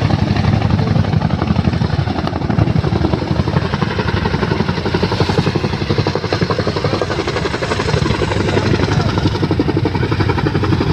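Boeing CH-47 Chinook tandem-rotor helicopter, its rotors beating in a rapid, steady chop.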